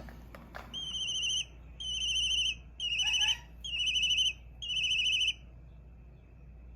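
Hawk chicks crying, played back through a phone's speaker: five quavering, whistle-like cries about a second apart, then they stop.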